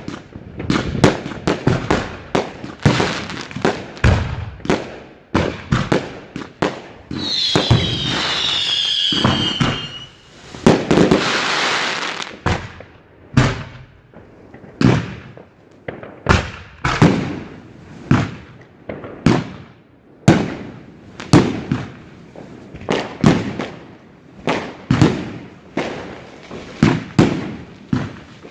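Fireworks display: a rapid run of sharp bangs, broken about a quarter of the way in by a wavering whistle that sinks slightly in pitch, then a few seconds of crackle, before the bangs go on at one or two a second.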